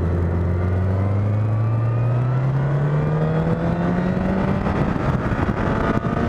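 2010 Honda CBR1000RR's inline-four engine under acceleration, its note rising steadily for about five seconds before the pitch changes.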